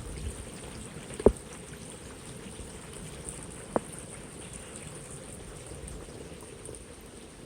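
Stormwater runoff from a pipeline construction corridor pouring down a small waterfall, a steady rush of water. Two sharp clicks cut through it, about a second in and again near four seconds.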